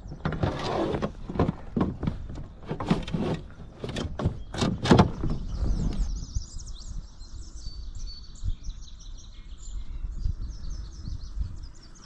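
A quick run of knocks and thumps for about six seconds, then small birds chirping in fast, high repeated twitters over quiet outdoor background noise.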